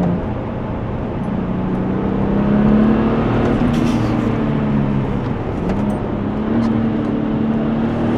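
Porsche 996 Turbo's twin-turbocharged 3.6-litre flat-six pulling under acceleration, its pitch climbing. It drops at a gear change about five and a half seconds in, then climbs again.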